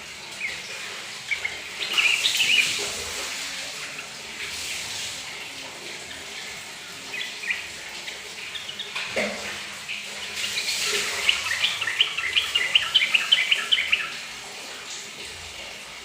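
Yellow-vented bulbul calling in short chirps, then breaking into a rapid run of chattering notes from about ten to fourteen seconds in, set off by the trickle of a running tap that hisses faintly underneath.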